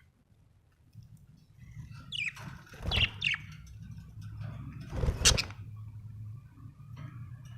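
Budgerigar chirping in short, quickly sweeping calls, the loudest near three and five seconds in, each of those with a low thud underneath. It starts after about a second of silence.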